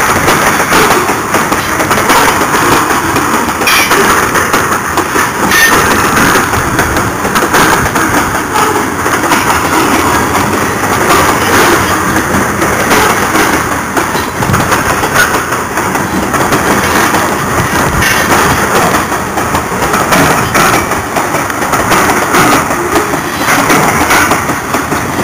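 Covered grain hopper cars of a freight train rolling past close by: a steady, loud rumble and rattle of steel wheels on the rails, with scattered clacks as the wheels cross rail joints.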